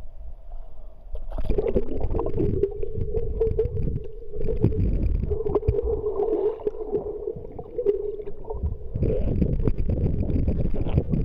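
Wind buffeting the microphone over sloshing water, with a steady drone running through the middle and fading out about two-thirds of the way in.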